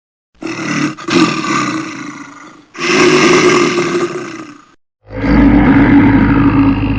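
Bear roaring, three long rough roars one after another, the last running on past the end.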